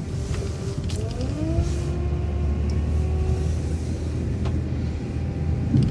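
City bus pulling away, its engine and drivetrain running with a steady low rumble and a whine that rises in pitch about a second in, then holds level.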